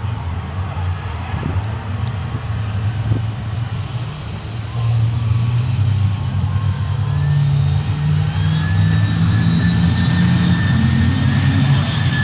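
Race truck's diesel engine running hard under load, louder from about five seconds in, with a thin high whine over it in the second half.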